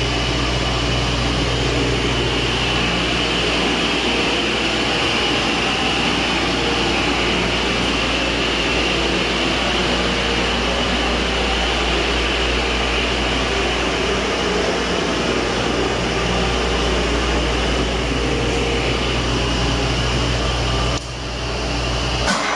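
2005 Cummins ISC 8.3-litre inline-six turbodiesel running steadily at idle, with a brief change in the sound about a second before the end.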